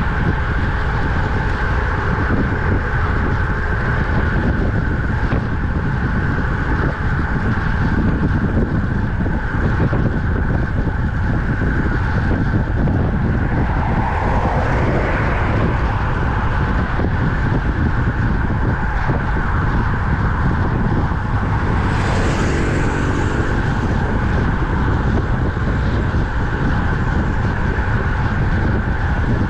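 Steady wind rush and rumble on a camera riding along on a road bike at speed, with tyre and road noise underneath. About two-thirds of the way through, a brighter hiss with a faint pitched hum rises briefly, like another vehicle passing close.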